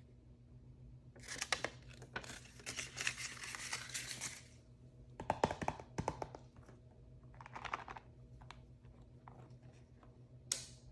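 Blind-bag packaging being handled: crinkling and tearing in bursts, with scattered small clicks and taps from handling the packaging and its contents. The longest crinkling runs from about a second in to past four seconds, with a shorter burst near eight seconds.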